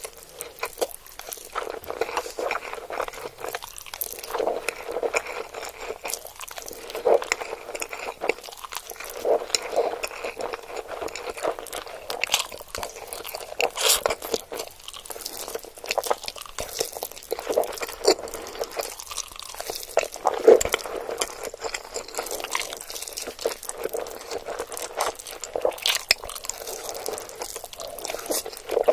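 Close-miked eating: continuous chewing and crunching with many small crackles and wet mouth sounds, louder bites every second or two.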